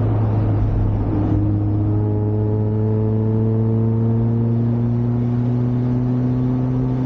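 Mazda MX-5's four-cylinder engine pulling in gear, its note rising slowly after about a second in, over a steady low road drone.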